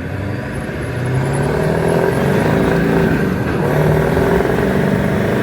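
Ford Power Stroke 7.3-litre turbo-diesel V8 pulling hard under acceleration, growing louder about a second in and then holding steady.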